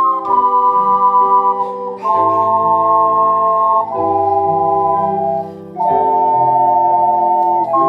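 Music: slow held chords on an organ-like keyboard, each chord changing about every two seconds.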